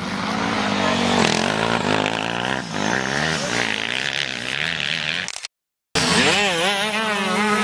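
Motocross bike engines revving, the pitch rising and falling as the riders work the throttle. The sound cuts out for about half a second about five and a half seconds in, then comes back with the revs climbing.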